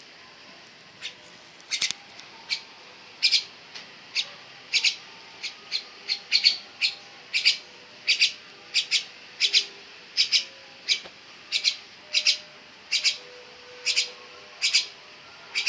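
A pet black myna gives short, sharp calls over and over, about two a second and often in quick pairs.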